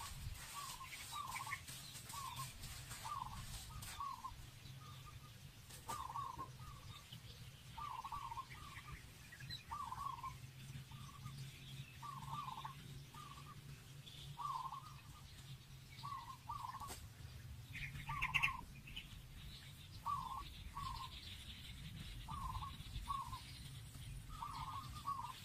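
A bird calling over and over in short notes, often in pairs, about once a second.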